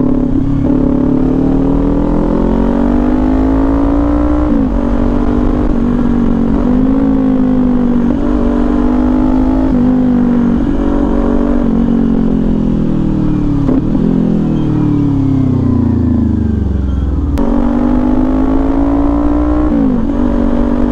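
Kawasaki Ninja 400's parallel-twin engine through an SC Project aftermarket exhaust, under way: the revs climb and then fall sharply at each gear change, about five times, with one stretch of easing off before the revs jump back up.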